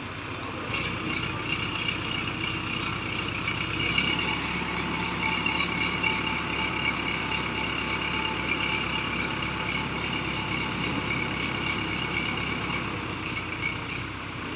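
Hydra crane's diesel engine running steadily, with a high whine coming in about a second in and the engine working a little harder from about four seconds in.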